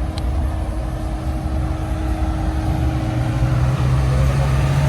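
A car engine running at low revs over a deep rumble, getting louder in the second half.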